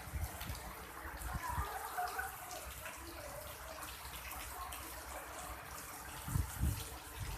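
Rain falling, with water trickling and many small drips ticking. A couple of low thumps come near the end.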